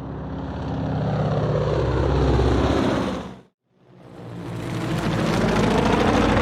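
A loud engine-like drone with a fast pulsing beat swells up, cuts off abruptly about three and a half seconds in, then swells up again.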